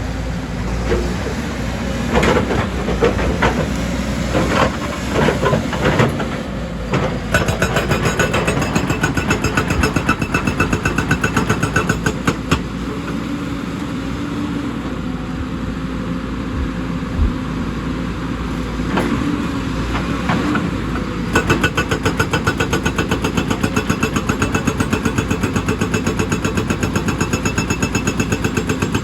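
Excavator's diesel engine running steadily, with a string of sharp clanks and knocks in the first several seconds. After that a fast, even pulsing comes and goes.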